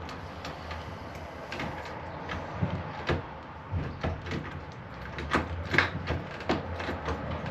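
Scattered clicks and knocks from a newly fitted keypad deadbolt being turned and handled on a door, closer together in the second half, over a steady low hum.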